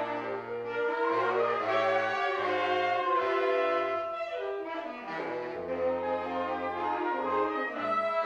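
Brass ensemble playing music: held chords over a bass line that steps from note to note, with a melody moving above.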